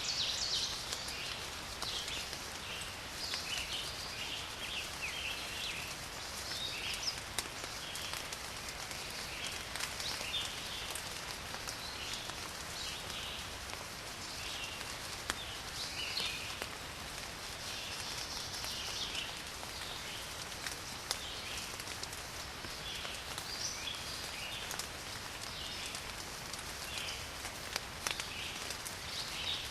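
Light rain falling steadily, with garden birds chirping again and again throughout.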